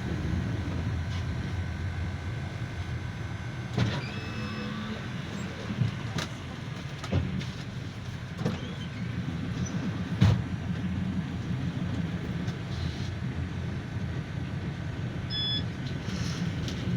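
Ride noise inside a GAZelle Next minibus on the move: a steady low engine and road rumble with about five sharp knocks and rattles spread through it.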